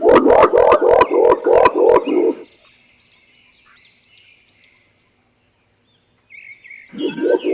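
Green imperial pigeon giving its deep, rapid hu-hu-hu call, about three or four notes a second for two seconds, then stopping and starting again near the end. Faint high chirps of other birds in the pause.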